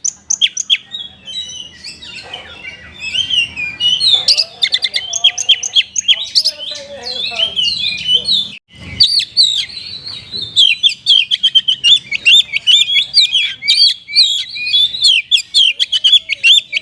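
Oriental magpie-robin (kacer) singing a rapid, varied song of chirps and whistles full of mimicked phrases, with a brief pause a little past halfway and then a fast run of repeated notes.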